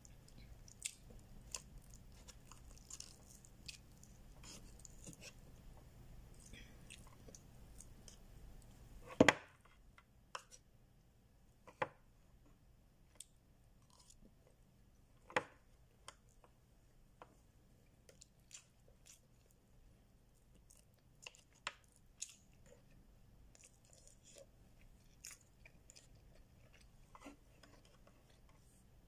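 Close-up eating sounds: chewing and small mouth and handling clicks, with one loud knock about nine seconds in.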